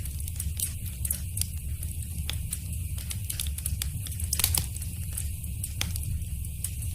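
Fire in a fireplace crackling, with sharp pops at irregular intervals over a steady low rumble.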